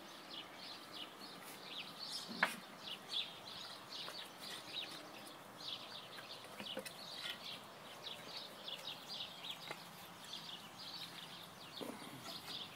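Small birds chirping busily and continuously in short, quick high notes, with one sharp knock about two seconds in.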